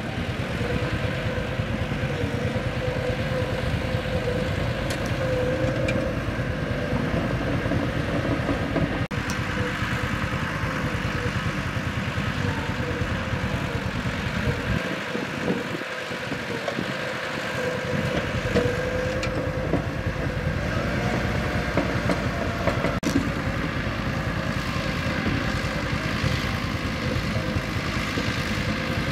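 Mitsubishi bulldozer's diesel engine running steadily, with a wavering whine over the rumble. About halfway through, the low rumble briefly thins before picking back up.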